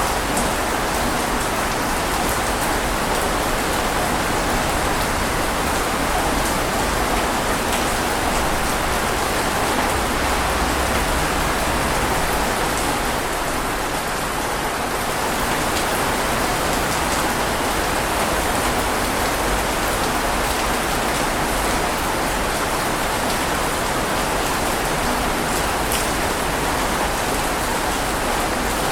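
Steady rain falling: an even, dense hiss with a few sharper drop taps here and there.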